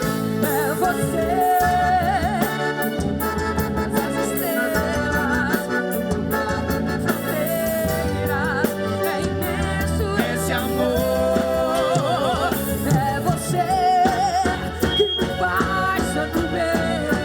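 Festa junina quadrilha song: a sung melody of long notes held with vibrato, over keyboard-like accompaniment and a steady bass.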